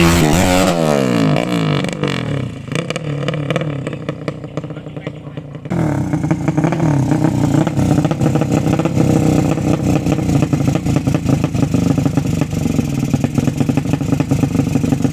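Motorcycle engine of a 200 cc drag-racing build. Its pitch falls away from a rev at the start and it runs rough and lower for a few seconds. About six seconds in, the throttle is opened and it holds a steady, raised rev with a rapid firing pulse.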